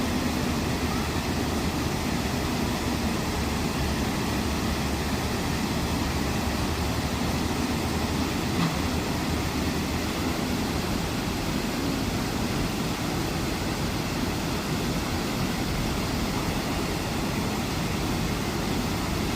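Motorcycle engine running steadily on the move, under a constant rush of wind on the microphone.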